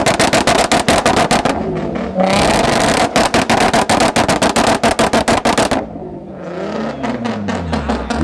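Car engine revved hard, the exhaust crackling with rapid pops for about six seconds. The revs then ease off and fall away near the end.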